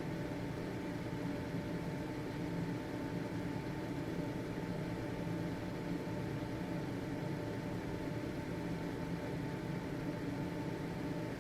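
Household exhaust ventilation fan running steadily: an even whooshing noise from the motor and blades, with a constant faint hum-like tone.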